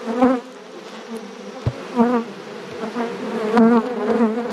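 Honeybees buzzing loudly around an opened hive, a steady hum with individual bees swooping close by in passes that rise and fall in pitch; the colony is disturbed and not happy. A single light knock about a third of the way in.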